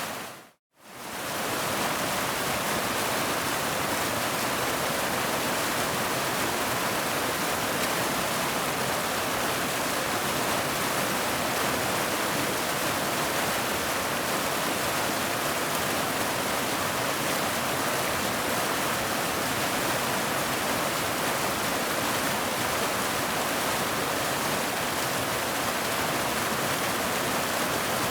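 Waterfall rushing in a steady, dense roar of falling water, with a brief fade to near silence and back about half a second in, where the recording loops.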